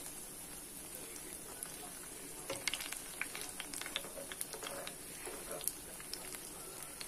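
Battered banana fritters deep-frying in hot oil, sizzling with many small crackles and pops that grow busier a few seconds in.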